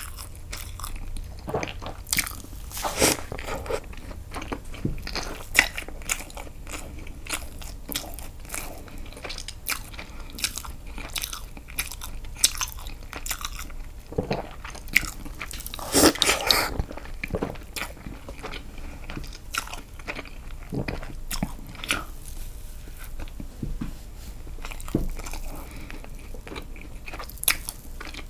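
A person biting and chewing castella sponge cake dipped in milk, with irregular clicking mouth sounds throughout and a louder cluster of them about halfway through.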